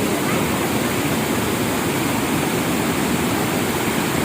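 Fast, swollen floodwater rushing in a river in spate, a loud steady roar of water.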